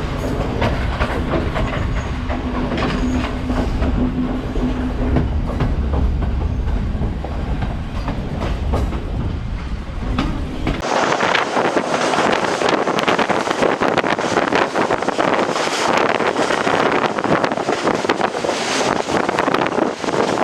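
Express train running on the line: a low rumble with a steady hum and wheels clattering over the rails. About halfway through, the sound changes abruptly to a loud rushing noise with the rumble gone.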